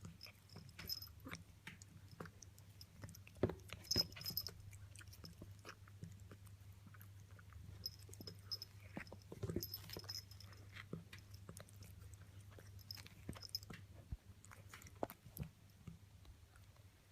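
A white Persian cat moving about as it settles in, making faint scattered clicks and soft rustles, a few louder ones about three to four seconds in and near the middle, over a steady low hum.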